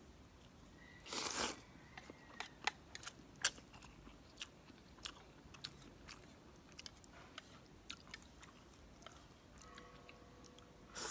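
Close-up chewing and mouth smacks of a person eating instant pancit canton noodles, a string of small wet clicks, with a short noisy slurp of noodles about a second in and another near the end.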